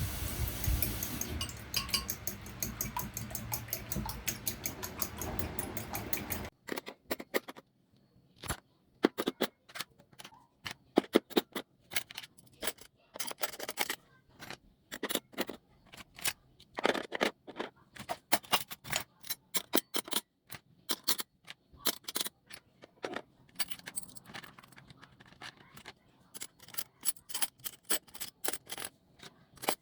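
Dishes and utensils clinking and clattering as they are handled, many short sharp clicks. A steady hiss at the start stops suddenly about six seconds in.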